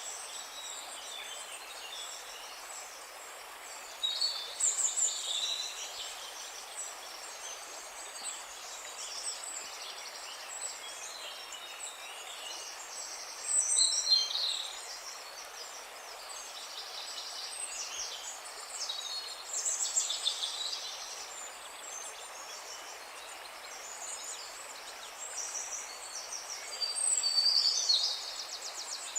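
Birds chirping and trilling in scattered bursts over a steady, even background hiss. The calls are loudest about 4, 14, 20 and 27 seconds in.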